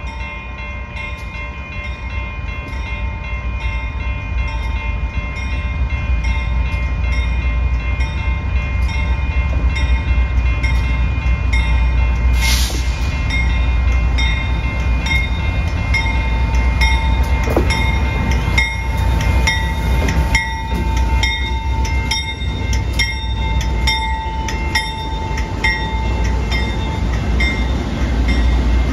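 A train passing, its low rumble growing louder over the first ten seconds, with a regular ticking and steady ringing tones throughout. A brief hiss comes about twelve seconds in.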